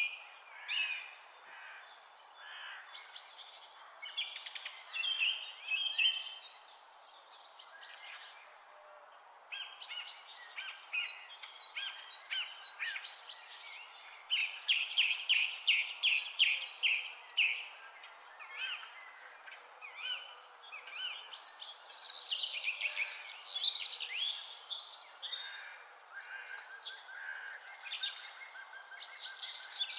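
Several songbirds singing and chirping, with quick repeated trills and whistled notes, over a faint steady background noise.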